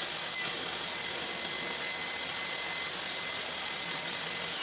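Table saw running steadily at full speed with a constant whine; right at the end it is switched off and the pitch begins to fall as the blade winds down.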